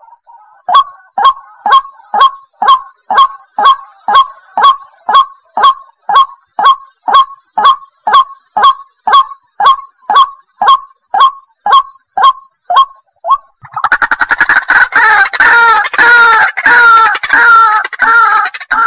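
White-breasted waterhen calling: a short falling note repeated about twice a second, then, about two-thirds of the way through, breaking into a faster, louder run of overlapping calls.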